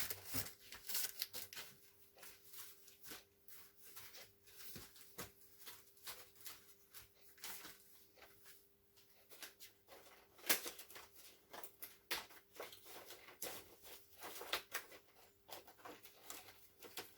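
Paper craft supplies being rummaged through and handled: irregular rustles, taps and clicks of paper and card, over a faint steady hum.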